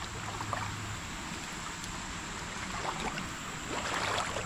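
Steady running water of a creek, with light rustling near the end.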